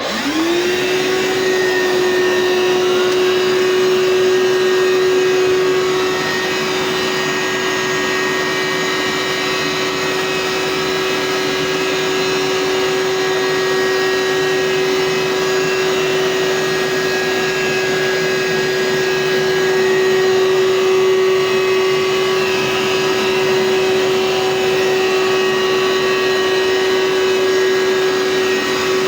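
Hoover SteamVac carpet cleaner switched on, its motor spinning up within the first second to a steady whine and then running steadily.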